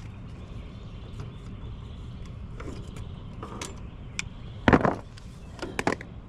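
Hand tools and metal parts being handled at an air-conditioner condenser's electrical panel while a capacitor is checked: scattered sharp clicks, one loud clank about three-quarters through and two smaller ones just after, over a steady low rumble.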